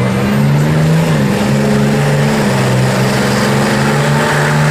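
Pickup truck engine running loud and steady, its pitch shifting slightly now and then.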